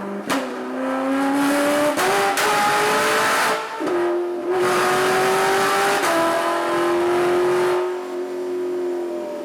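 Corvette C6 Z06's 7.0 L LS7 V8, with a Katech Stage 2 K501 camshaft and ported heads, breathing through the stock mufflers, revved up from idle and held above idle in several rising steps with short lifts between. It falls back toward idle near the end.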